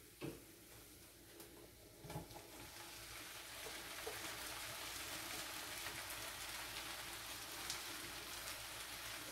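Chopped tomatoes tipped into a pan of hot melted butter, setting off a soft, steady sizzle that starts about two seconds in and grows slightly louder. A light knock comes just before, near the start.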